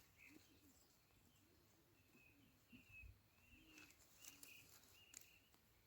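Near silence with faint bird chirps, and a few faint clicks about four to five seconds in.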